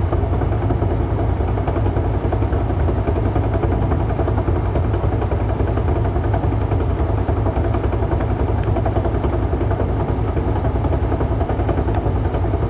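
2006 Mustang GT's 4.6-litre V8 idling steadily in neutral, carrying a noise that appears to come from the Tremec 3650 five-speed manual transmission, which two Ford dealers have called normal.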